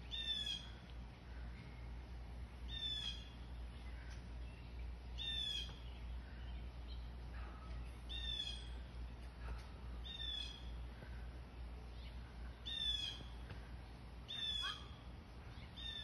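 A small bird, unseen, repeating a short high call about every two seconds, each a quick run of downward-slurred notes, over a low steady rumble.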